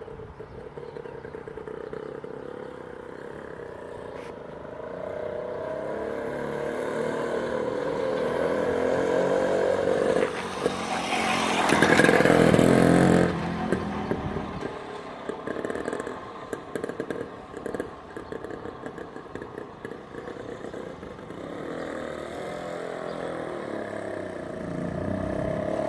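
A 1955 Sun's 98cc Villiers two-stroke engine as the bike is ridden past. It grows louder to a peak about halfway through, drops off suddenly and fades away, then grows again near the end as it comes round once more.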